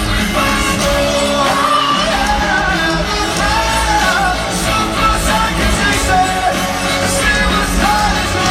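Live rock band playing with a lead singer's voice carrying the melody over the full band, recorded from the audience.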